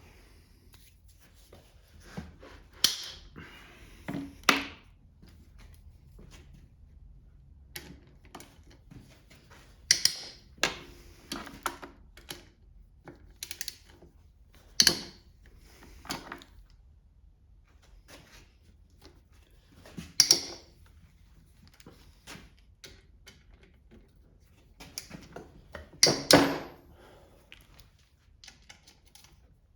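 Metal hand tools and engine parts clinking and clanking as they are handled and set down while a Kohler small engine is taken apart. About ten separate sharp knocks a few seconds apart, with a louder double clank near the end.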